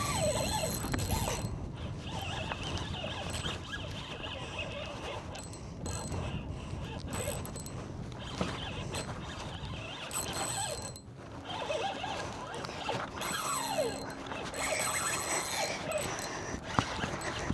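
Fishing reel drag clicking and buzzing in spells as a big redfish pulls line off against it.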